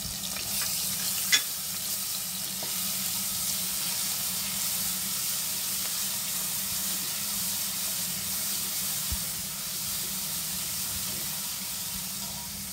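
Chopped shallots and ginger-garlic paste sizzling steadily in hot oil in a kadai while being stirred with a silicone spatula. A single sharp click comes about a second and a half in.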